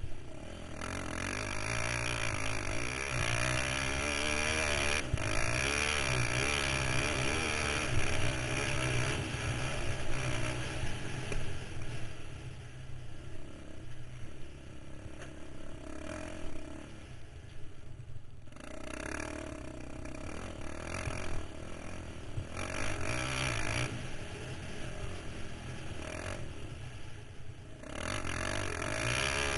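KTM 525 XC quad's single-cylinder four-stroke engine under riding load, its pitch rising and falling with the throttle, with brief drops as the throttle is closed, the clearest about eighteen seconds in.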